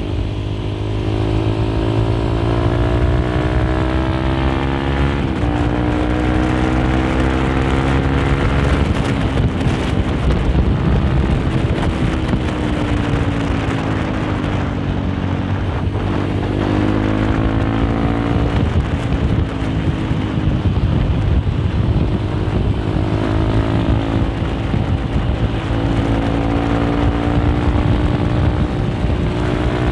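Honda CRF150L single-cylinder four-stroke engine running through a Nofifumi Torc aftermarket exhaust while riding, the pitch repeatedly rising under throttle and falling as it eases off or shifts gear.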